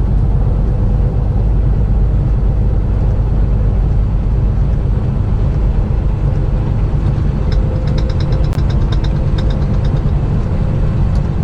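Steady low rumble of a semi-truck's engine and road noise heard inside the cab while driving. A short run of light, quick ticks comes about two-thirds of the way through.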